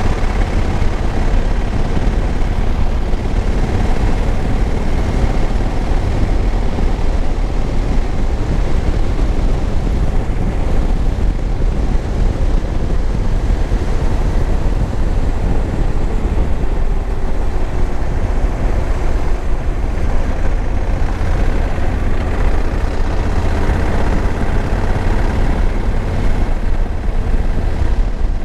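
2021 Honda Africa Twin's parallel-twin engine running at a steady cruise, mixed with the rush of riding wind over the microphone.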